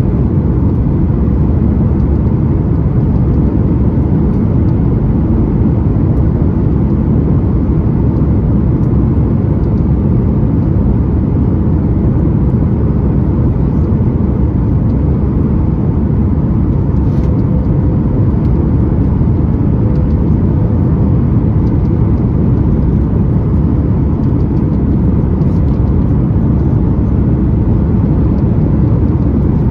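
Steady, loud roar of airflow and engines heard inside the cabin of a Boeing 737-9 MAX in flight, a deep rumble with a faint steady hum above it.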